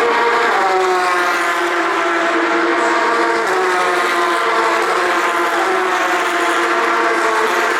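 Several Porsche 911 GT3 Cup race cars' flat-six engines running hard, their overlapping notes falling in pitch as they go by and then holding steady.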